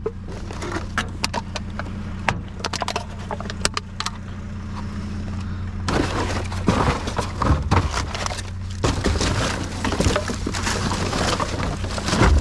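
Rummaging through trash: scattered clicks, knocks and clatters of junk being moved and broken, with stretches of louder scraping and rustling in the second half, over a steady low engine hum.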